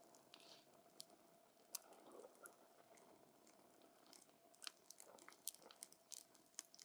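Wood campfire crackling quietly, with irregular sharp pops from the burning logs that come more often in the second half.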